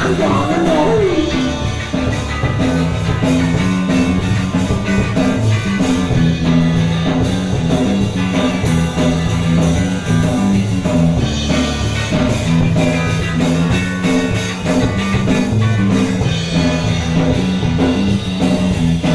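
Punk rock band playing live and loud: guitar, bass and drum kit driving a fast song, with a sung line just at the start.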